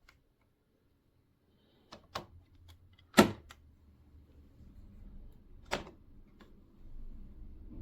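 A few sharp clicks and knocks, the loudest about three seconds in, followed by a low steady hum that builds from about halfway.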